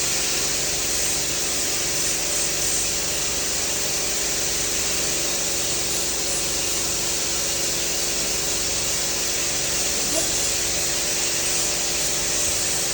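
Welding arc burning steadily on pipe: a continuous, even hiss with a steady hum under it.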